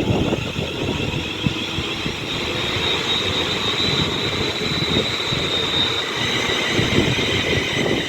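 Electric train moving through the station: a steady high whine from its traction equipment over the rumble and irregular clatter of wheels on the rails.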